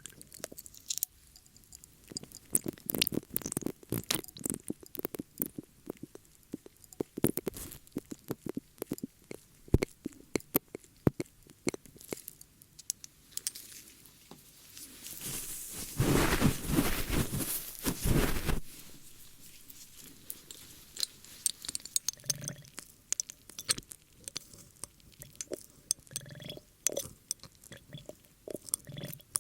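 Close-up ear-cleaning ASMR sounds: irregular crackling clicks and scrapes, with a denser, louder rubbing stretch lasting about three seconds a little past the middle.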